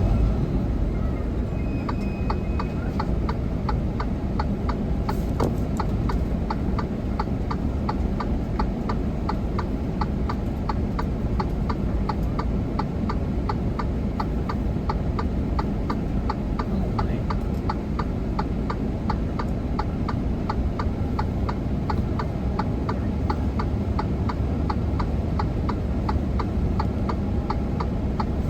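Steady low rumble of a heavy truck under way, with a quick regular ticking, about three to four ticks a second, starting about two seconds in.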